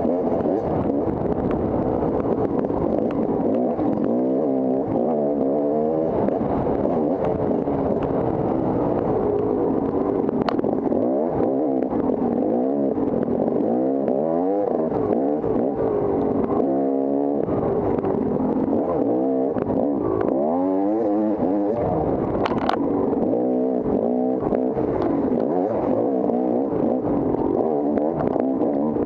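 Off-road dirt bike engine running under load, its pitch rising and falling over and over as the throttle is worked on a trail. Scattered sharp clicks and clatter come through over the engine.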